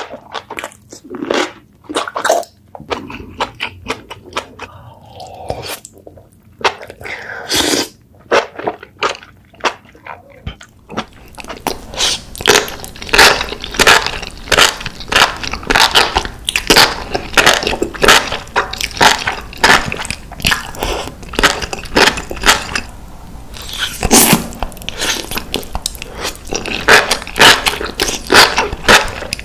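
Close-miked eating sounds: biting and chewing spicy enoki mushrooms, with separate bites at first, then a dense, quick run of chewing sounds from about eleven seconds in.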